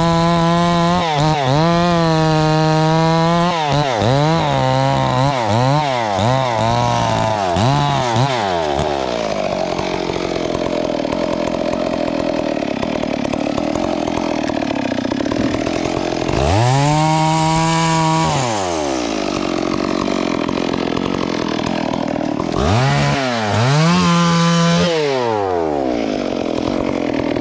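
Two-stroke chainsaw revved hard in a string of quick bursts, its pitch jumping up and dropping back each time, then running lower and rougher for several seconds before two more brief revs.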